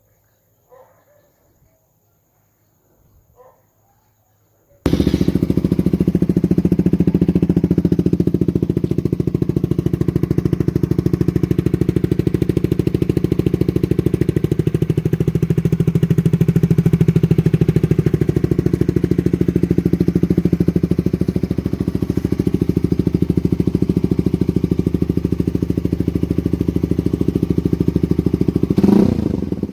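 Suzuki GSX-R125 single-cylinder four-stroke engine idling steadily through an R9 aftermarket exhaust silencer. The engine sound cuts in abruptly about five seconds in, after a few seconds of faint background sound, and is blipped a couple of times near the end.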